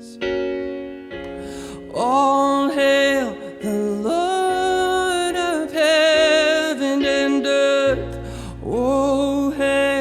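Slow worship-band music: a voice holding long, wavering sung notes without clear words over sustained keyboard chords.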